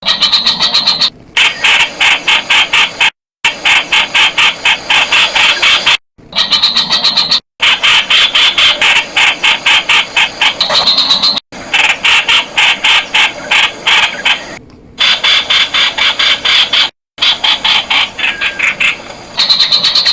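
Streak-eared bulbul calling: rapid runs of short, sharp repeated notes, in stretches of a few seconds broken by abrupt silent gaps.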